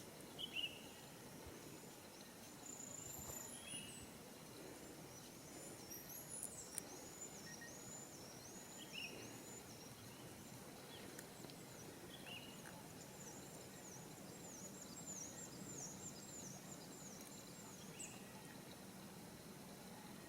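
Faint high-pitched bird calls over low outdoor background noise, with two runs of quick repeated chirps, one about six seconds in and one about thirteen seconds in, and single shorter calls every few seconds. A few faint taps sound near the start and about seven seconds in.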